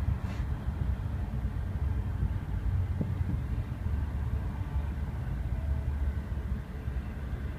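Double-stack container freight train passing, a steady low rumble.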